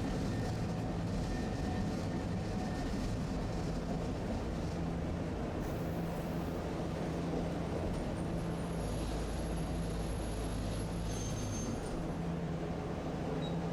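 Tosaden streetcar running along its track: a steady low hum of motor and wheels.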